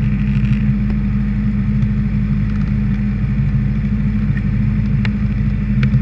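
Honda CBR600RR's inline-four engine idling steadily at a standstill, with a couple of faint clicks near the end.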